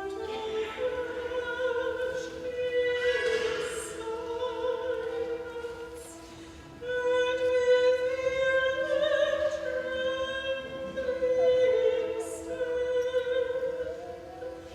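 Choral sacred music: voices singing sustained phrases with vibrato over a steady held note in the accompaniment. The music softens about six seconds in and comes back louder a second later.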